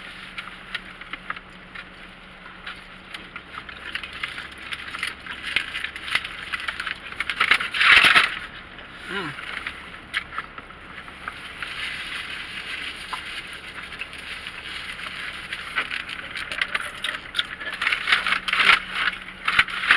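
Close-up eating and food-packaging sounds: paper wrappers and a paper bag crinkling and rustling with many small clicks, and a louder rustle about eight seconds in.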